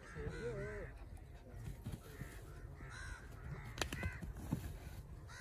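Birds cawing, short harsh arching calls repeated a few times, with a couple of sharp clicks about four seconds in.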